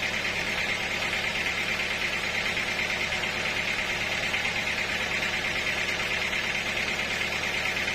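Sawmill machinery running steadily: an even mechanical drone with a constant higher-pitched whine on top.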